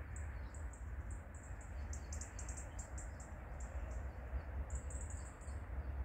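Small wild birds chirping: quick runs of thin, very high-pitched chirps, some in fast trills, over a steady low rumble.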